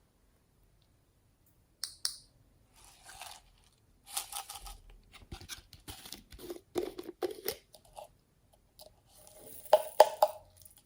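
Slime being handled and mixed by hand: irregular sticky squishes, crackles and clicks, starting about two seconds in, with the loudest cluster near the end.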